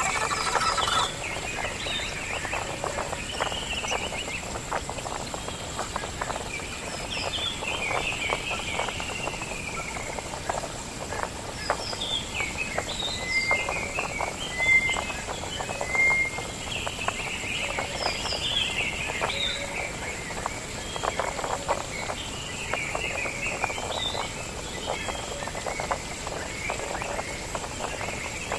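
Birds chirping and calling, a run of short, quick chirps repeating over a steady background.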